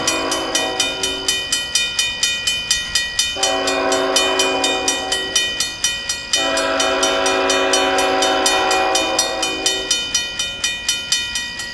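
A railroad crossing bell ringing steadily at about four strikes a second, while an approaching freight locomotive sounds its air horn in three blasts. The last blast is the longest.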